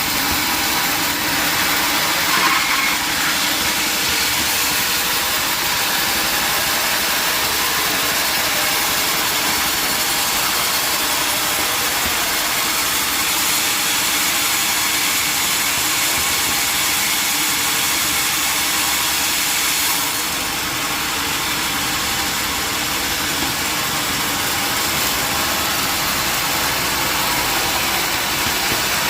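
Sawmill machinery running: a steady, even mechanical noise with a faint engine hum beneath, briefly louder about two and a half seconds in and easing slightly about twenty seconds in.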